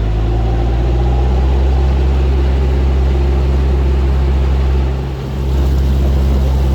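A narrowboat's diesel engine running steadily at high throttle, with a short dip in level about five seconds in before it picks back up.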